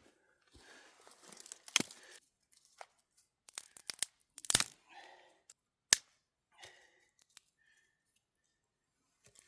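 Irregular rustling and crinkling with several sharp clicks and cracks, the loudest about four and a half and six seconds in, from things being handled at close range.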